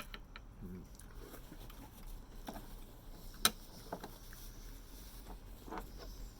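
A person chewing food, with scattered small clicks of eating and one sharp click about three and a half seconds in.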